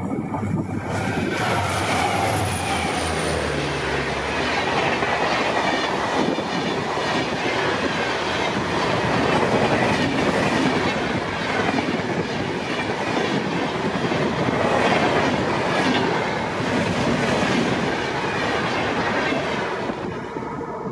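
Twin WDG4D diesel locomotives hauling an express train past at speed. The engine drone is heard as the locomotives go by in the first few seconds, then a long rush of coaches passes with steady wheel clatter. The sound drops off near the end as the last coach clears.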